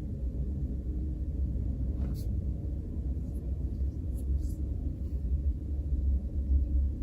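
Microwave oven running with a steady low hum, and a few faint clicks in the middle.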